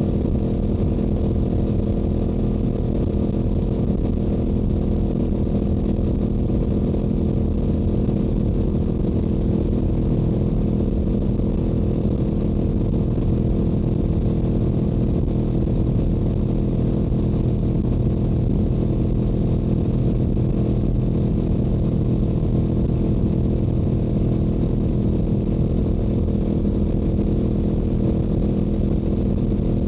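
Stock-exhaust Yamaha YZF-R7 with its parallel-twin engine running at a steady highway cruise, holding one constant engine note with wind rumbling low underneath.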